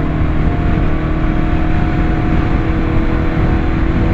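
BMW S1000RR inline-four engine cruising at a steady speed, its note holding an even pitch, under a constant rush of riding noise.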